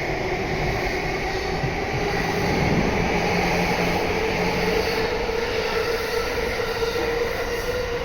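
Electric commuter train running along the platform: a steady rumble with a faint motor whine that rises slightly in pitch.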